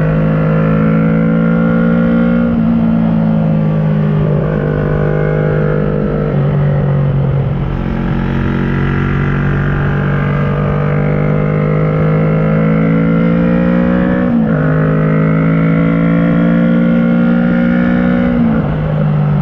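2010 Kawasaki ER-6n's parallel-twin engine through an SC Project carbon exhaust, pulling under load. Its pitch climbs slowly and then drops or jumps sharply at several gear changes.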